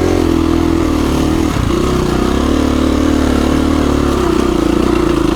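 KTM 350 EXC-F dirt bike's single-cylinder four-stroke engine running at steady revs under way, with a brief dip in revs about a second and a half in.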